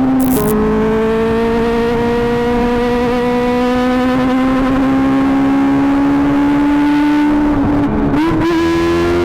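Kawasaki ZX-25R's 250 cc inline-four running through an Akrapovic GP exhaust, its high-pitched note climbing slowly under throttle. The note breaks briefly just after the start and dips and picks up again near the end, like gear changes.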